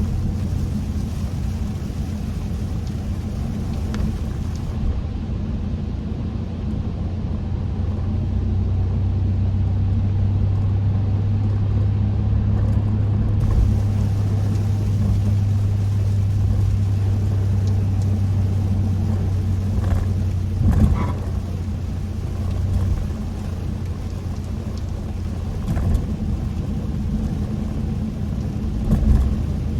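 Kia K5 (DL3) on the move: a steady low drone of engine and road noise, with two short thumps, about two-thirds of the way through and again near the end.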